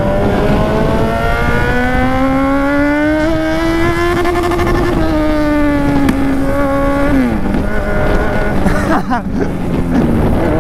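Kawasaki Z1000's inline-four engine under way. Its pitch rises steadily for about four seconds, holds, then falls sharply about seven seconds in. Near the end it dips briefly and climbs again.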